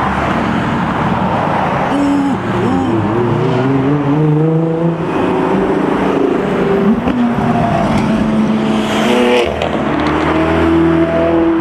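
Car engines revving and accelerating away, the pitch sweeping up and falling back several times over a constant rumble of running engines.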